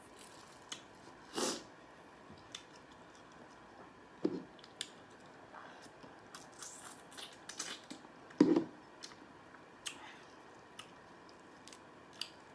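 Close-up eating sounds: bites and chewing of seafood-boil shrimp, with scattered small wet mouth clicks and a few louder bites about a second and a half, four seconds and eight and a half seconds in.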